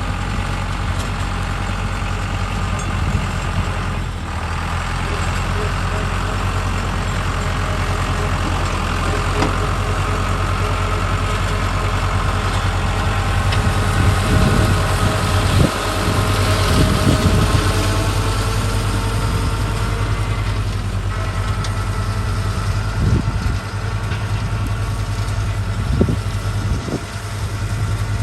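Small tractor engine running steadily, driving a Trident flail mower, with a steady whine over the engine drone. There are irregular louder surges around the middle.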